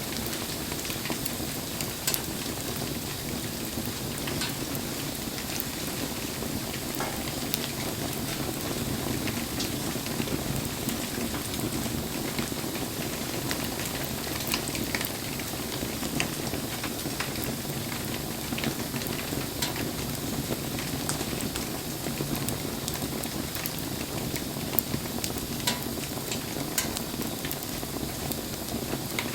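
Wood campfire burning in the rain: a steady hiss of rain and sizzling, with scattered sharp crackles and pops from the fire.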